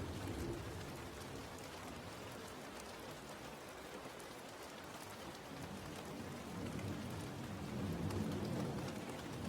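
Steady rain falling, with a low rumble of distant thunder dying away in the first second and another swelling up near the end.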